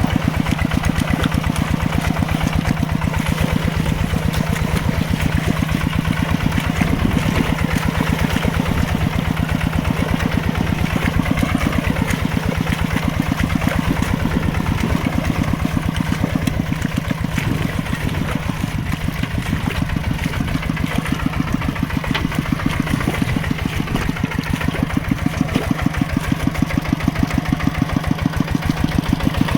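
Mini tractor engine running steadily under load while plowing wet mud, with a rapid, even pulsing beat.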